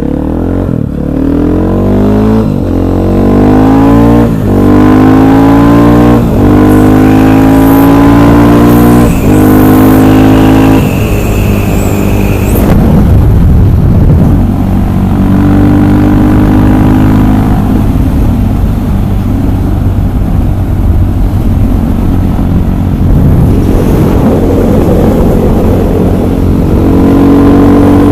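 KTM 500 EXC supermoto's single-cylinder four-stroke engine accelerating up through the gears: the pitch climbs and drops back about five times in the first eleven seconds as it shifts up. It then runs at a steadier speed and pulls again near the end.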